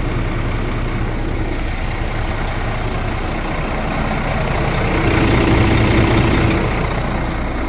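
Scania S500 truck's 13-litre inline-six diesel idling steadily, swelling louder for about a second and a half around five seconds in before settling back.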